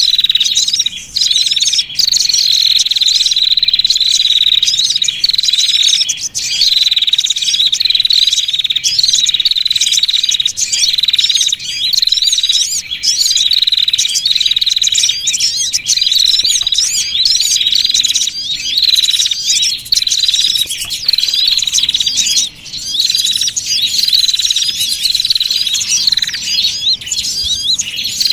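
Bird-trapping lure recording of small songbirds chirping densely and without pause: a fast, high twittering with a sharp call repeating about every second. It is played to call small birds such as the sogon down to a trap.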